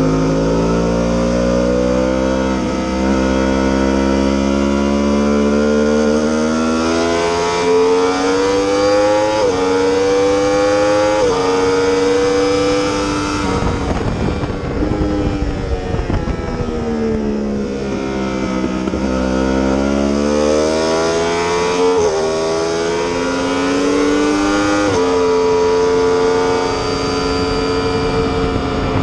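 Yamaha R1 sportbike's inline-four engine accelerating hard through the gears on a racetrack, its pitch climbing and dropping a step at each upshift. About halfway through it falls away as the bike slows for a corner, then climbs through the gears again.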